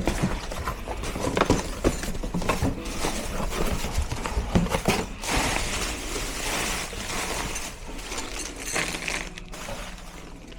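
Hand tools knocking, cracking and scraping on tumble dryer parts during dismantling: an irregular run of sharp knocks and clatter.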